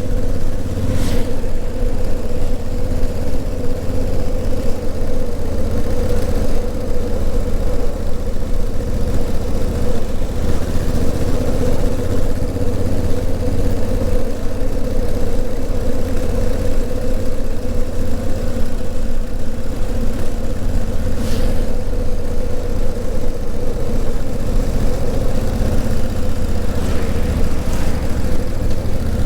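Honda CRF1000L Africa Twin's 998 cc parallel-twin engine running at a steady, even speed while the bike is ridden, with a few faint ticks.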